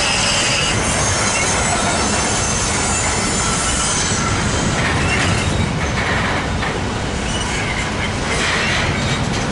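Cars of a long intermodal freight train rolling past at close range, a steady rumble of steel wheels on rail with high-pitched wheel squeal, strongest in the first second and returning in patches later.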